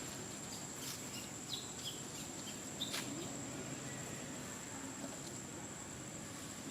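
Outdoor ambience with a steady high-pitched insect drone, a few short high chirps between about one and three seconds in, and a sharp click near the three-second mark.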